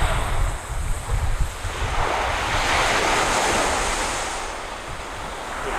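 Waves washing onto the beach, one swelling in and drawing back over a couple of seconds, with wind buffeting the microphone for the first second or so.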